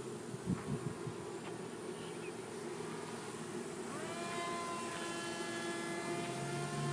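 Electric motor and propeller of an Aerobird Challenger RC plane buzzing in flight, faint at first, then rising in pitch and growing slightly louder about four seconds in. A lower hum joins near the end.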